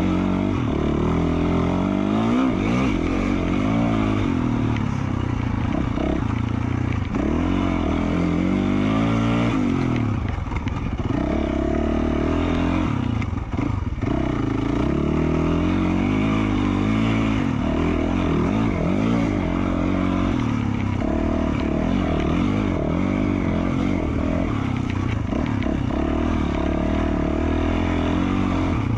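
A 2020 Yamaha YZ450F's single-cylinder four-stroke engine running through an FMF Q4 slip-on exhaust while being ridden, its revs rising and falling over and over as the throttle is worked.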